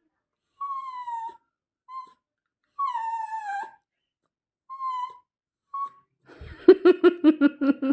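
Pet dog whining: five high whines that fall in pitch, one long and several short, then near the end a quick stuttering run of short, lower sounds, louder than the whines.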